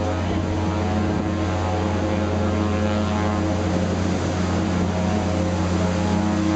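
Ship's engine droning steadily, a low pitched hum under an even hiss.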